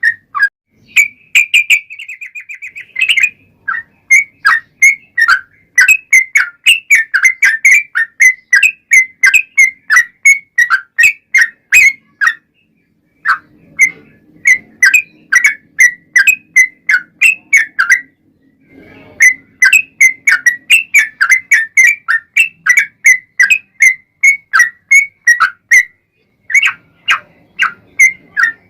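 Yellow-vented bulbul (trucukan) song: bright, quick chirping notes repeated several times a second in long runs. There is a brief rapid trill about two seconds in and short pauses near the middle and toward the end. This is the long rolling 'ropel' song that keepers use to provoke a caged bird into answering.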